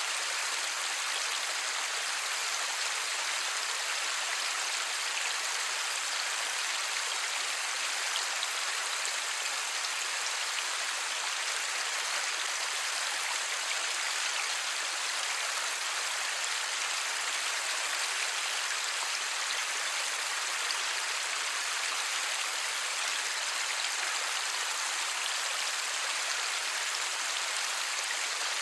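Steady light rain falling, an even hiss of many fine drops, with no thunder.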